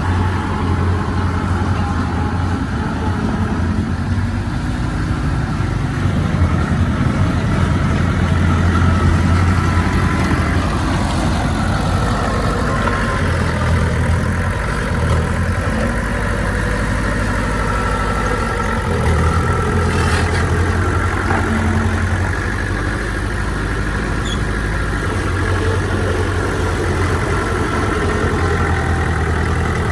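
Bulldozer's diesel engine running steadily, its low note shifting up and down every few seconds as the load changes.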